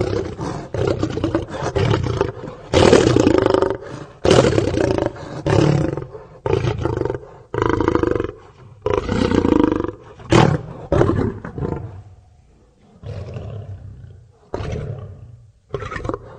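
Lion roaring: a bout of loud roars about a second long each, one after another, tailing off into shorter, fainter grunts near the end.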